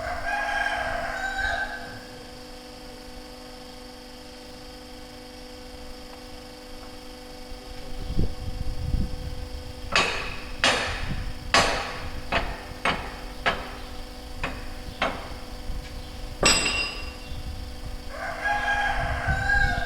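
A run of sharp strikes, about nine in six seconds, typical of a hammer on metal, over a steady hum. A long pitched call sounds near the start and again near the end.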